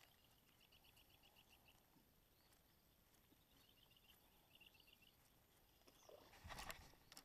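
Near silence with a bird's faint rapid trill of high chirps, heard twice. Near the end comes a short, louder scuffing noise.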